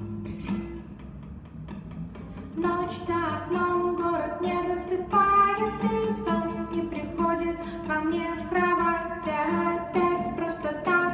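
A song: quiet plucked-string accompaniment, then a voice comes in singing about two and a half seconds in and carries on over it.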